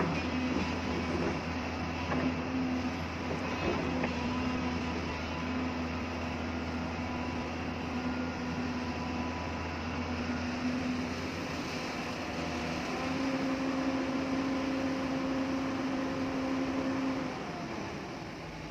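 Hyundai hydraulic excavator's diesel engine running steadily under work, with a held hydraulic whine that steps up a little about two-thirds through and fades out near the end. A couple of light knocks come in the first few seconds.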